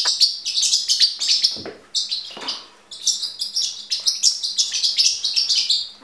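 Small songbird singing in rapid, high chirps and trills, with brief lulls about two and three seconds in.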